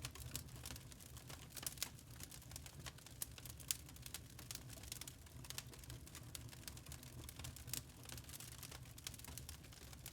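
Wood log fire crackling in a fireplace: irregular sharp snaps and pops, several a second, over a steady low rumble.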